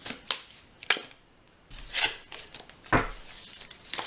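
Tarot cards being handled on a table: a couple of sharp snaps in the first second, then several quick sliding swishes as cards are moved and laid down.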